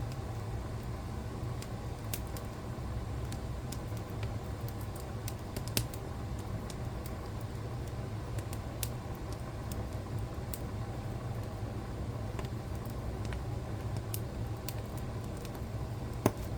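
Wood fire in a fireplace crackling: scattered sharp pops and snaps over a steady low rumble, with a louder pop near the end.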